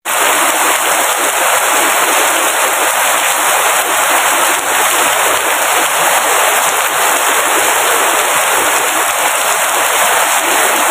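Steady heavy rain falling, a dense, even hiss without let-up.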